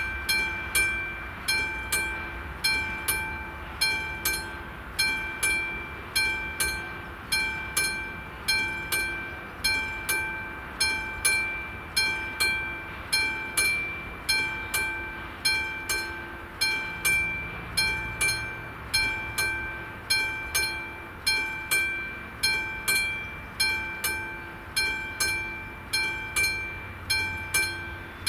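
Railway level crossing warning bell starting suddenly and striking steadily, about three strikes every two seconds, each a ringing, several-pitched tone that dies away: the crossing is signalling an approaching train.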